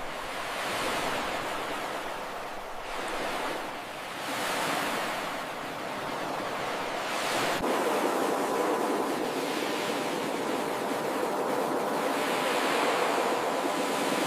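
Ocean surf washing onto a beach: a steady rushing of water that swells and ebbs as successive waves break, about four surges in the span. Partway through, the sound changes abruptly and a faint steady hum sits under the surf.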